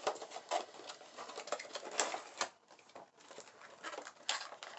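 Cosmetic packaging being handled and opened by hand: irregular rustling and small clicks as a lip kit is unwrapped.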